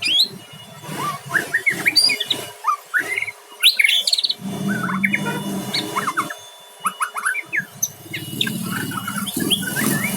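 White-rumped shama (murai batu) singing, a fast varied run of short whistles and chirps, with a low background hum at times underneath.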